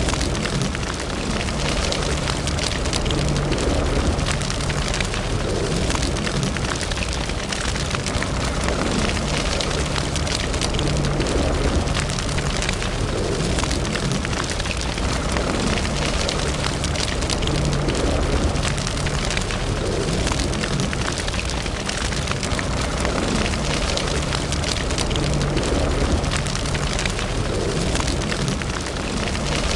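Wood fire burning in a fireplace: a steady rush and low rumble of flames with frequent crackles and pops from the burning wood.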